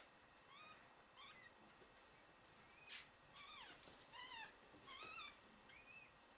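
Newborn Shiba Inu puppies crying in a string of short, high-pitched squeaks, about eight of them. The sound is faint.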